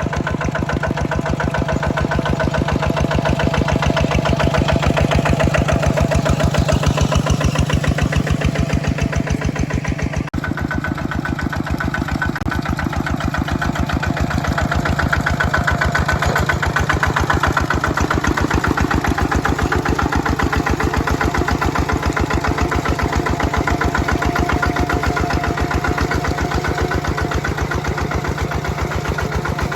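Small tractor engine running steadily with a fast, even chugging of firing strokes while it pulls a plow through paddy mud. There is a brief break about a third of the way in, and then the same engine carries on.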